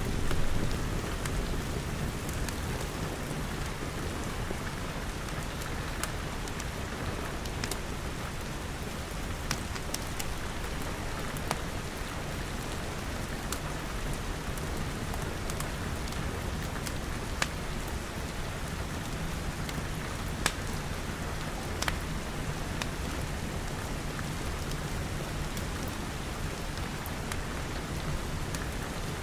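Steady rain pattering on glass, with a low rumble underneath and a few sharp, isolated pops from a crackling wood fire.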